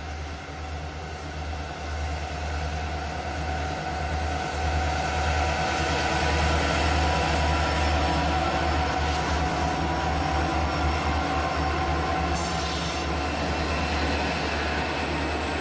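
A freight train's EMD diesel-electric locomotives passing close by: a steady low engine drone with the noise of steel wheels on rail, growing louder over the first several seconds as the lead units come abreast and then holding as the third unit and the hopper cars roll by.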